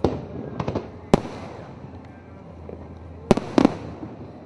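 Aerial firework shells bursting overhead: sharp, irregular bangs, a few in the first second or so and two more close together a little past three seconds in.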